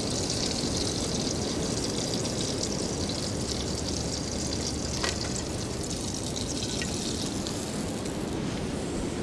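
Steady rushing wind noise from blizzard winds, an even hiss over a low rumble, with one faint click about five seconds in.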